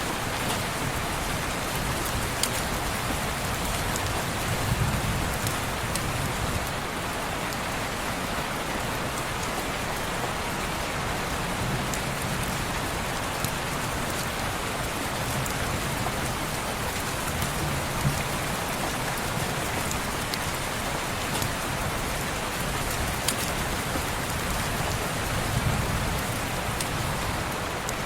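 Steady heavy rain falling on window glass, an even hiss with scattered sharp little clicks and a few soft low swells.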